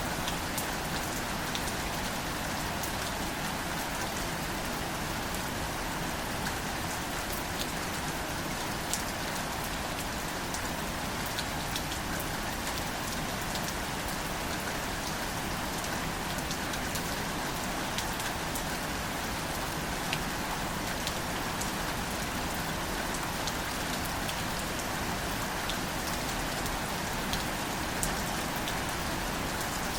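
Gentle, steady rain falling on wildflowers and leaves: an even hiss with scattered single drops ticking close by.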